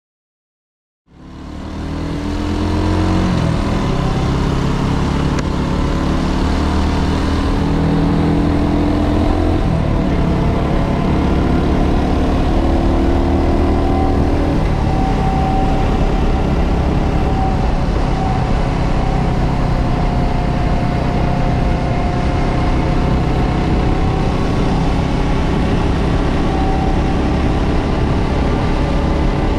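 Motorcycle engine running on the move, fading in about a second in, with its note changing a few times over a steady rush of noise.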